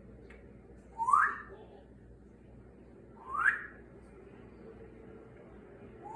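Congo African grey parrot whistling: three short rising whistles, each sliding up quickly, spaced about two to three seconds apart, the last right at the end.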